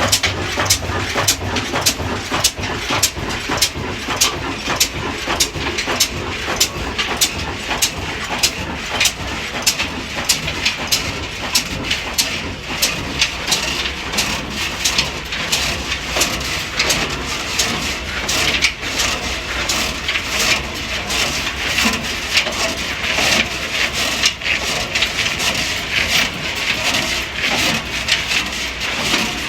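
Large-flywheel single-cylinder diesel engine running steadily, its exhaust beating evenly at about three sharp beats a second.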